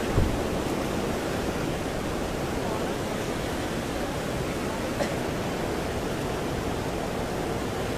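Steady rush of fast-flowing floodwater, with a short low thump just after the start and a brief click about five seconds in.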